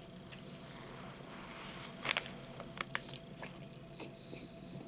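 Close-up mouth sounds of a person chewing and biting food, with a few wet clicks and smacks about two to three seconds in.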